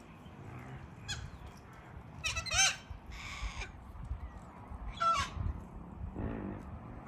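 Corellas in a roosting flock calling: a string of separate squawks, a tight cluster of them about two and a half seconds in, then a harsh screech, with further squawks near the end.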